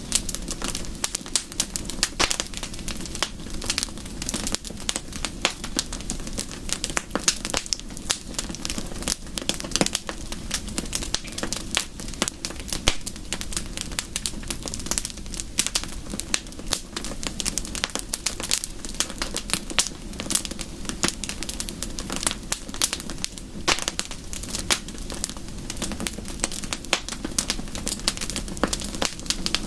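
Wood fire crackling steadily, with many small, irregular pops and snaps over a soft, steady hiss.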